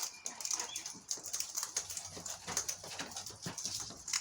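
Wild birds at scattered seed: a quick, uneven patter of small clicks and wing flutters, with a few faint short chirps.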